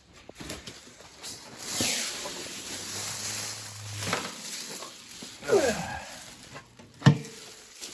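Cardboard box and packing being handled and pulled apart while a minibike is unpacked, irregular rustling with several louder swells and a sharp knock about seven seconds in.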